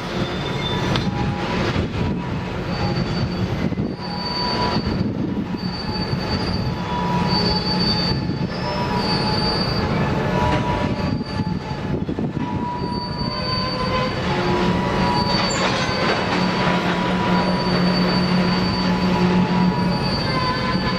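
A train rolling past, its steel wheels squealing on the rails in high-pitched tones that come and go over a steady low rumble.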